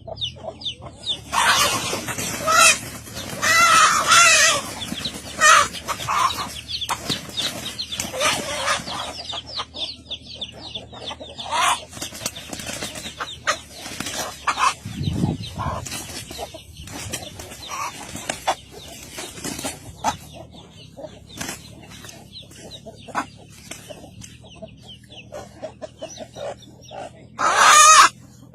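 Chickens clucking and squawking in repeated short calls, loudest and busiest in the first nine seconds, then quieter scuffling. A loud call starts near the end.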